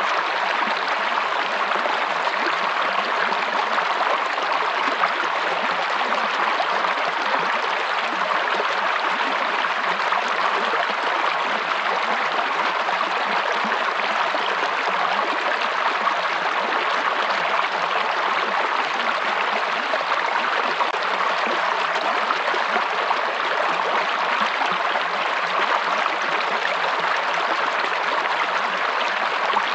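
Running water of a stream, a steady even rush with no break or change.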